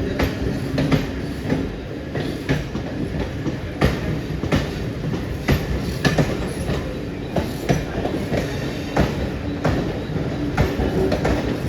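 Mumbai suburban local electric train running past, its wheels clicking unevenly over rail joints above a steady rumble.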